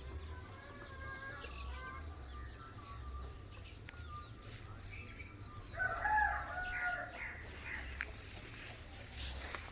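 Rooster crowing, with the loudest crow about six seconds in and fainter calls in the first few seconds.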